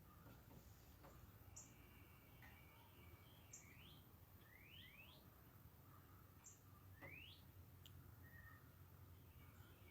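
Faint birdsong: several short upward-sweeping chirps and brief high notes scattered every second or two, with a soft trill near the middle.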